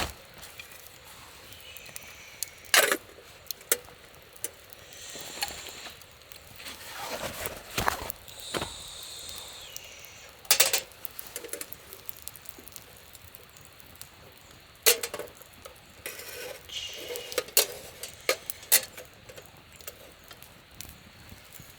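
Scattered clinks, taps and knocks of small camp gear being handled, with rustling in between and a few brief ringing tones.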